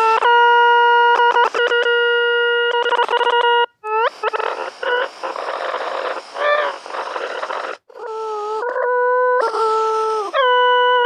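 Synthesized electronic sounds made in the Desmos graphing calculator. A steady buzzy tone is held for a few seconds and broken by clicks. A noisy hiss with a wavering pitch follows, then tones that step up and down in pitch.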